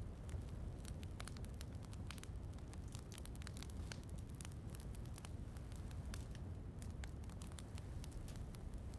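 Wood fire in a fireplace crackling, with frequent small irregular pops over a steady low rumble.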